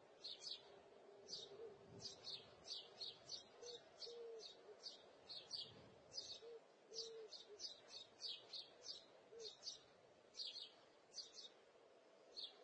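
Birds chirping faintly: a steady run of short, high chirps in quick succession, with a few short low notes underneath in the first half.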